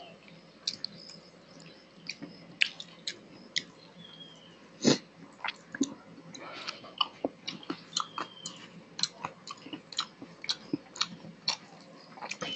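Close-miked eating sounds of a man eating rice and fish curry by hand: wet chewing with many short, sharp lip smacks and clicks, the loudest about five seconds in.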